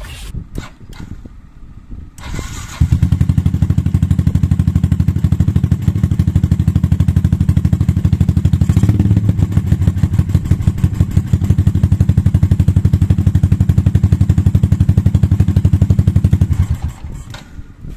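Yamaha New Jupiter MX 135cc single-cylinder four-stroke motorcycle engine started through a racing exhaust freshly repacked with glasswool. It starts about two seconds in, idles with a steady, even pulsing beat, and cuts off near the end.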